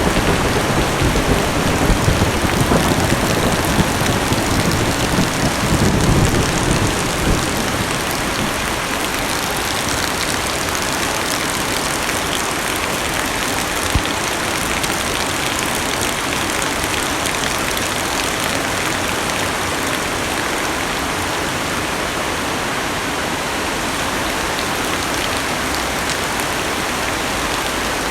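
Heavy rain falling on a car's roof and windows, heard from inside the cabin as a steady, dense hiss. A low rumble of thunder dies away over the first several seconds.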